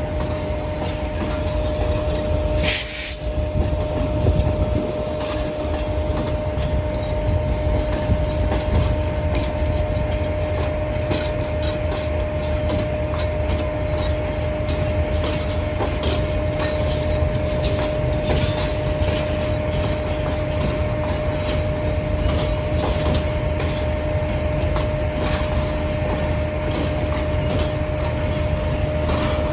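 Passenger train rolling slowly along the platform line, its wheels clicking over rail joints, over a steady rumble and a constant hum. A brief hiss comes about three seconds in.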